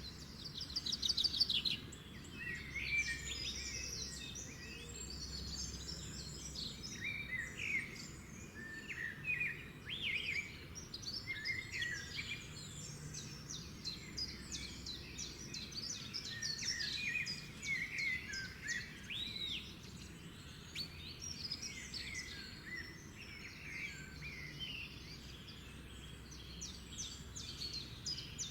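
Several songbirds chirping and singing together, many short calls and trills overlapping, over a faint low background hum.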